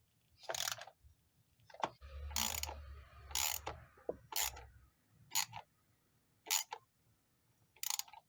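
Short mechanical clicking strokes from hand-tool work on a car, about one a second, with a low rumble for a few seconds in the middle.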